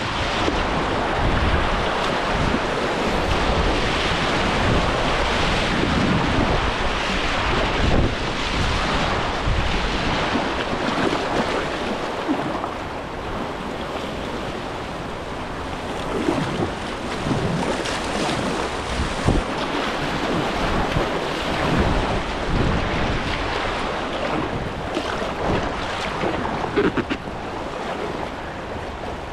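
Rushing river water around a kayak on a whitewater run, a steady loud wash of noise, with wind buffeting the microphone.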